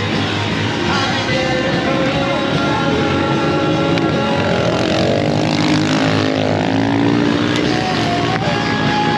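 Small 110cc motorbike engine running, its pitch rising and falling with the throttle about midway, with music playing alongside.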